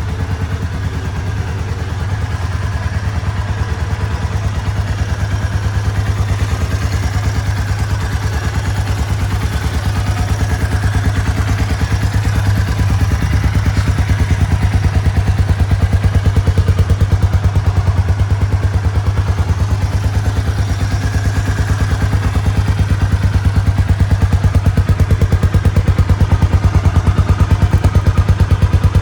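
Kawasaki Estrella RS's air-cooled single-cylinder engine idling steadily, with an even, rapid pulse from the exhaust.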